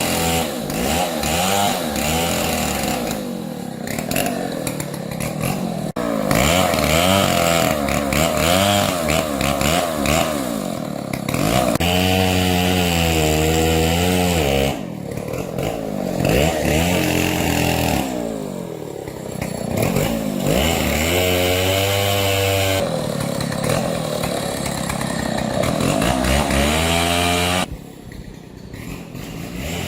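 Chainsaw running and cutting through fallen tree wood, its engine pitch rising and falling as it revs and loads up in the cut. It comes in several stretches that break off abruptly.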